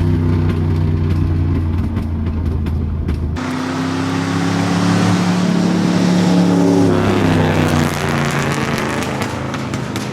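Ford LTD's V8 engine running at steady revs, then, after an abrupt cut a little over three seconds in, the car driving past: the engine note climbs, is loudest about two-thirds of the way through, and drops in pitch as it goes by.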